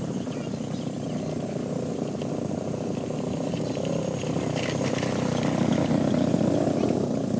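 Steady low rumble of a motor vehicle's engine and road noise, growing slightly louder toward the end.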